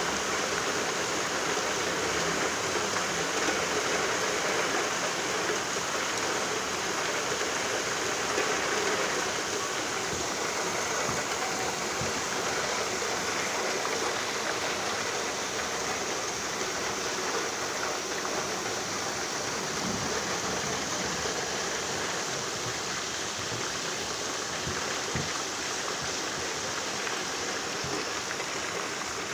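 Rain falling steadily: an even hiss with a few scattered drip ticks.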